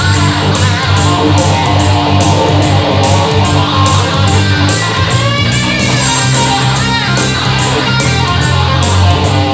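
Live rock music: electric guitar playing over a bass line and a steady drum beat, with no singing.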